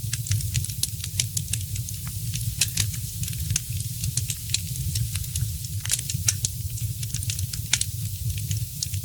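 Wood fire crackling: frequent irregular sharp pops and snaps over a soft hiss and a steady low rumble.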